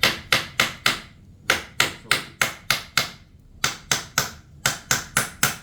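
A hammer driving nails: sharp, evenly paced strikes about three a second, in three runs with short pauses between.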